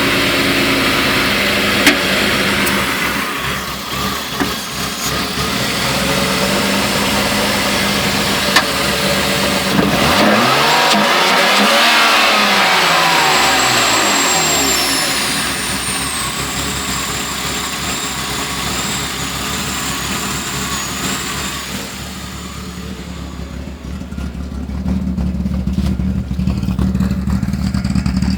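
BMW M50B20 2.0-litre straight-six running, revved up once about ten seconds in and falling back to idle. A thin high whistle follows the rev and sinks slowly in pitch before fading; the engine's strange noises are the point of the recording.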